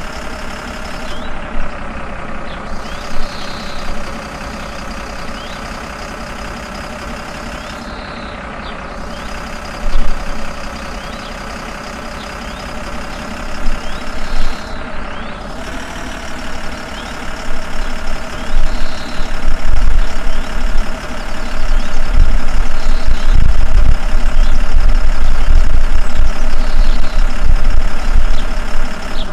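Tractor engine running steadily, a loud continuous drone. From about 19 seconds in, heavy low thumping joins it and the overall sound grows louder.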